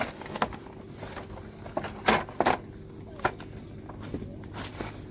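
A few separate sharp knocks and clicks, scattered unevenly over a few seconds, over a quiet background.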